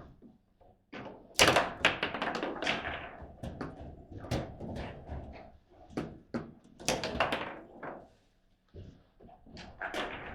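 Table football in play: a rapid, irregular run of sharp knocks and thuds as the ball is struck by the rod-mounted players and bangs off the table walls. The hardest hits come about a second and a half in and again around seven seconds.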